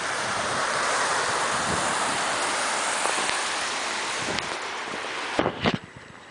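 Steady rushing of waves washing onto the lake shore, which cuts off sharply about five seconds in, followed by a few sharp knocks.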